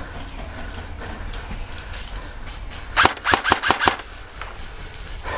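Airsoft gun firing a short rapid burst of about six shots, about three seconds in.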